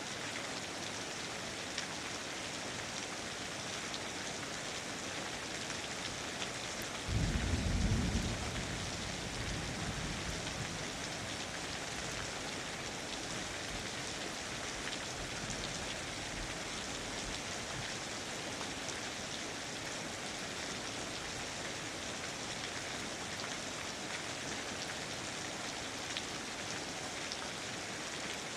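Steady rain falling in a rainforest. About seven seconds in, a sudden low rumble of thunder breaks in and dies away over several seconds.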